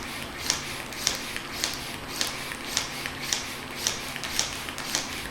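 Small hand pump drawing the air out of a vacuum storage bag of clothes, worked in a steady rhythm of about two strokes a second, each stroke a short sharp sound.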